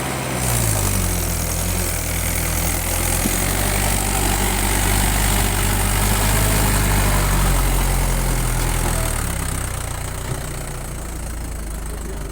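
Mahindra 475 tractor's diesel engine running steadily, a little louder in the middle and easing down about nine seconds in.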